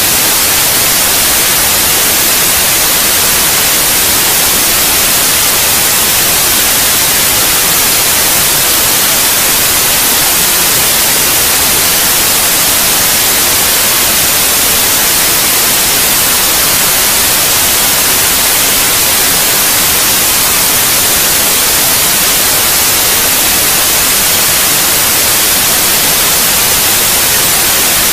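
Steady white noise, played to lull babies to sleep: a loud, even hiss, brightest in the high end, that never changes.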